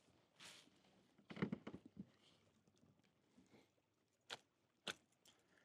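Near silence broken by scattered small handling noises: a cluster of soft knocks about a second and a half in, then two sharp clicks.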